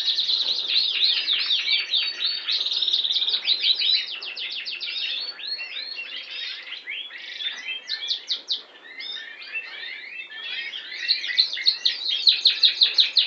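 Canary singing a long, continuous song of rapid trills and chirps, with a loud run of quick repeated notes near the end.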